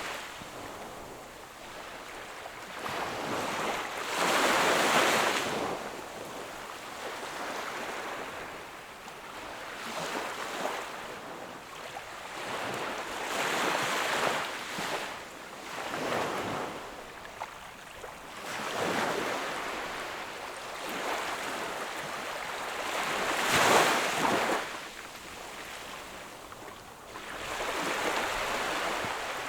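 Small waves breaking and washing on the shore, each surge of surf swelling and ebbing every few seconds, the loudest near the start and about three quarters of the way through.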